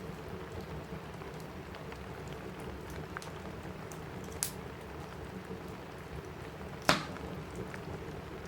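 Steady rain on a roof with a wood fire crackling over it: scattered small snaps and two sharp pops, the louder one about seven seconds in.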